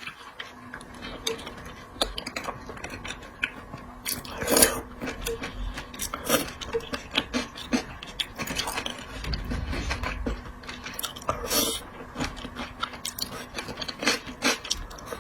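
A person chewing and biting seafood close to the microphone, with many irregular sharp crunches and wet clicks.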